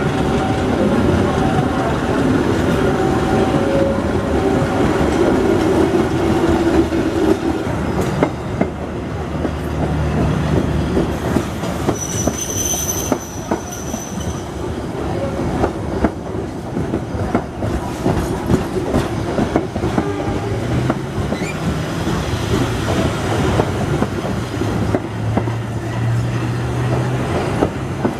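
A train rolling past at close range, its wheels clattering rapidly over the rail joints, with a brief high-pitched wheel squeal about twelve seconds in.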